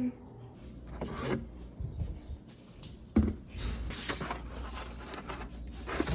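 Rustling and scraping of things being handled, with a few knocks; the sharpest knock comes about three seconds in.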